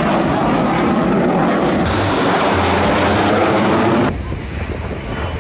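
Loud aircraft engine noise from a plane flying at an airshow. It drops suddenly to a quieter aircraft rumble about four seconds in.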